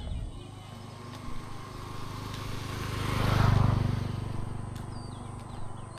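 A small-engined motor vehicle passes close by, growing louder to a peak about three and a half seconds in and then fading away.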